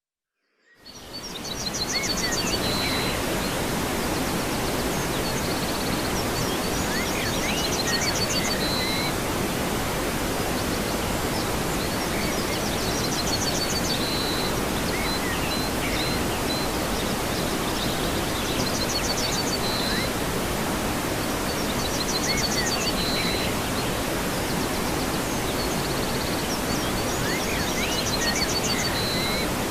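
Waterfall: steady rushing water that fades in over the first second or two. A bird's short high song phrase recurs above it every five or six seconds.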